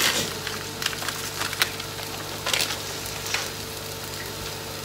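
Soya mince and vegetables frying dry in a pan: a steady sizzle with a few faint crackles.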